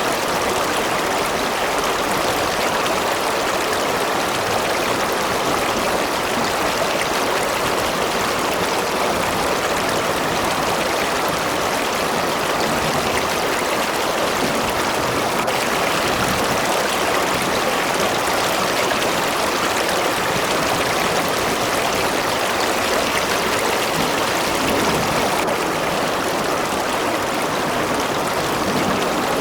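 A river or stream running steadily over rocks, a constant rush of flowing water.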